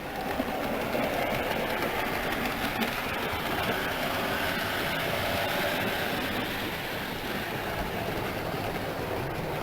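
A 00 gauge model train running on the layout, its wheels rolling and rattling along the track with the locomotive's motor running, in a steady stream that gets louder about half a second in.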